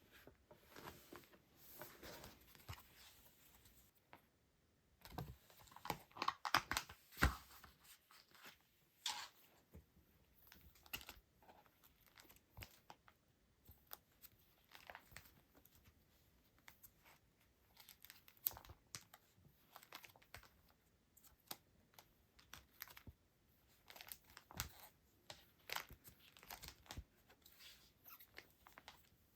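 Hands handling paper and plastic packaging: rustling, crinkling and tearing with many small clicks and taps, loudest in a burst of rustling about six seconds in.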